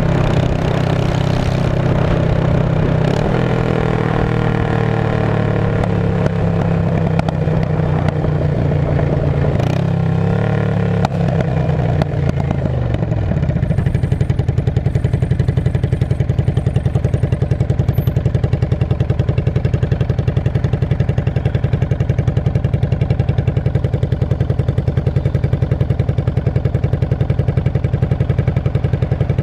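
Straight-piped Yamaha V-Star 650 air-cooled V-twin running loud, its engine speed shifting for the first dozen seconds. Its revs then drop, and from about halfway through it settles into a steady, evenly pulsing idle.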